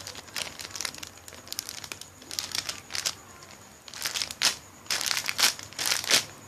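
Thin plastic bag crinkling as it is handled and folded around a sponge, in irregular rustles that grow louder in the second half.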